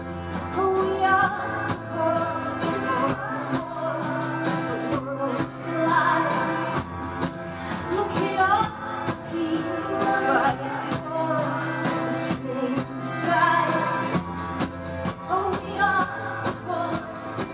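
Live pop band playing a song, with drums keeping a steady beat under a sung melody.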